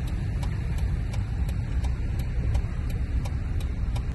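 Car running with a steady low rumble, and a sharp regular clicking about three times a second.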